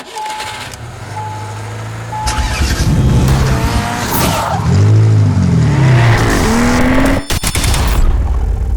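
Car engines revving, their pitch rising and falling several times. Three short beeps about a second apart come first, and the sound breaks off abruptly about seven seconds in.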